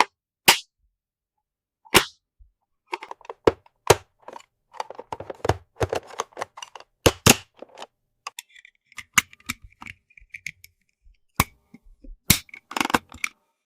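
Hard plastic toy pieces being handled, with sharp separate clicks and taps and a busier run of small rattles and knocks in the middle. There is a faint squeak a little after the midpoint.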